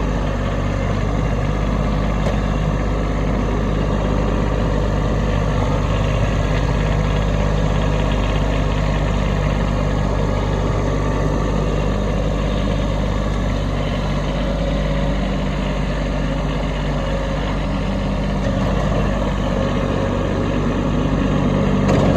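Kubota B2601 compact tractor's three-cylinder diesel engine running steadily while plowing snow.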